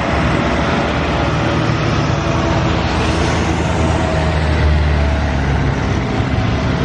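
Loud, steady engine noise with a deep rumble and a faint whine partway through.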